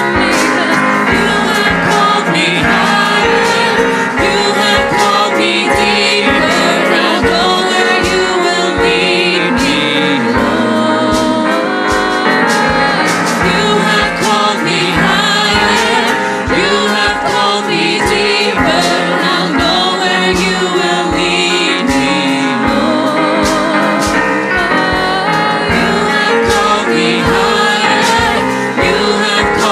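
Worship song performed live by a lead singer and choir with a band, the voices singing over a steady beat.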